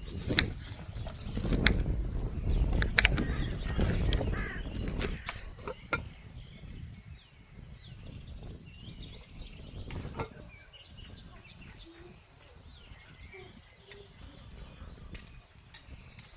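Small birds chirping outdoors, with sharp clicks and a low rumble of handling noise over the first five seconds.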